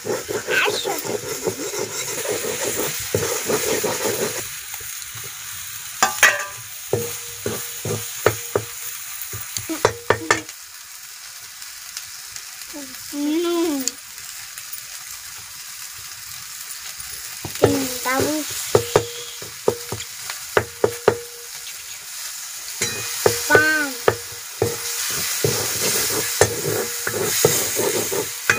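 Chicken and masala sizzling in a metal kadhai while a steel spoon stirs and scrapes against the pan, in stretches of rapid clicks and scrapes with a quieter spell of plain sizzling in the middle.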